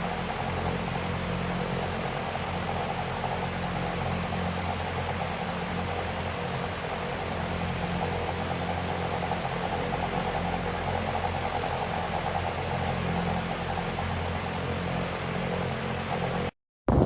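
Comfort Zone 9-inch cradle fan running steadily: an even rush of air over a low, steady motor hum. It cuts off abruptly near the end.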